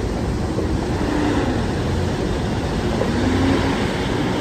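Freight train's last car, a covered hopper, rolling over a street crossing: a steady rumble of steel wheels on the rails.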